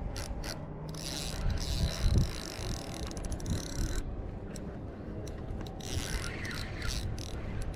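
Fishing reel clicking and ratcheting in irregular runs as line is worked against a hooked fish that has run into weeds.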